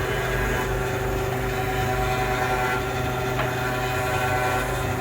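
Workshop machine running steadily, a constant hum with several steady tones.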